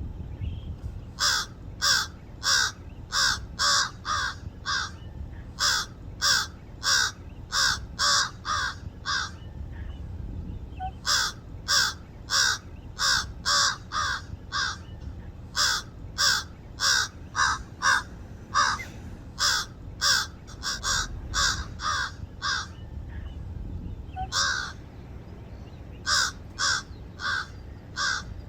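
Crows cawing in long runs of harsh calls, about two to three a second, broken by short pauses: mobbing calls at an owl.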